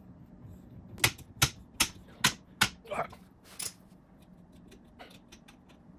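A run of about seven sharp clicks, two to three a second, then a few faint ticks near the end, from handling a thread tap and its wrench.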